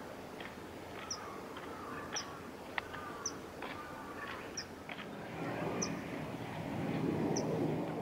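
Birds calling: a short, high chirp repeated about once a second, with other brief chirps among it. From about five and a half seconds in, a low rumble rises beneath the calls.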